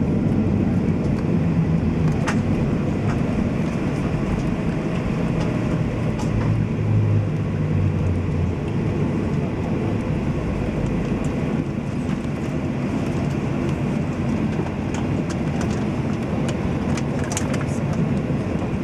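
Steady rumble of a Ryanair Boeing 737 landing, with a low engine hum in the first several seconds, slowly easing off.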